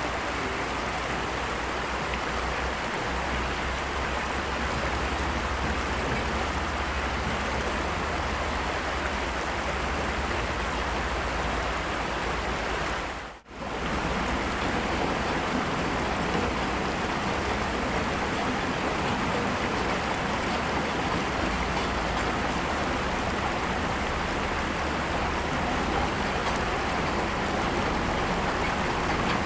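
Heavy rain falling as a steady, even hiss. It drops out for a moment about halfway through.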